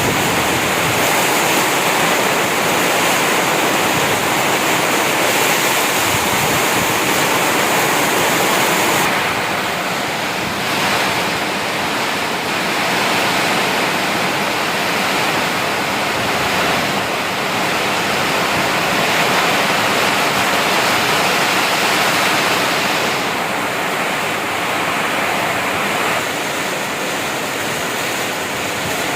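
Heavy tropical rain falling steadily in the jungle: a loud, even hiss of rain that eases a little about nine seconds in.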